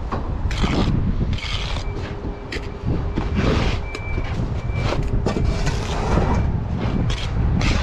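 Wind rumbling on the microphone, with repeated scraping strokes of a bricklayer's trowel working mortar on brick every second or two.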